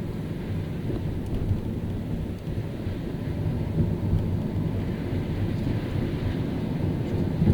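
Car driving on a rain-soaked road: a steady low rumble of tyres and engine with a hiss of water spray, and a few brief bumps.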